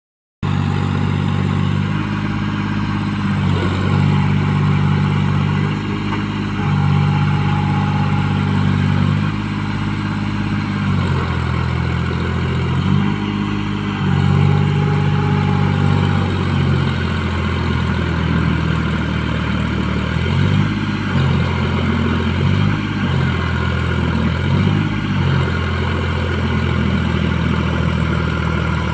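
John Deere 5045 tractor's diesel engine running under load in mud, its note rising and falling again and again.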